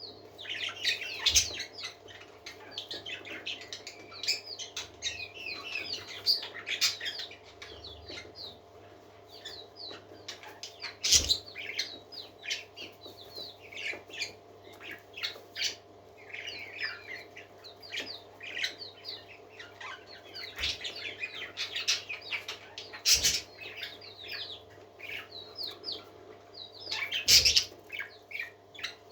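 Pet parakeets chattering and warbling without pause in fast, high chirps, with a few sharp taps standing out louder, over a faint steady hum.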